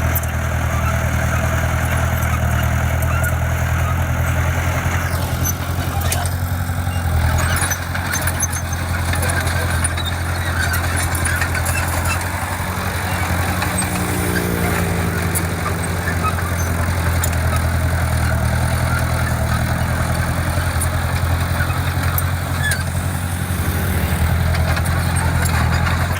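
Heavy construction machine's diesel engine running steadily, with scattered light clicks and a brief change in engine pitch about halfway through.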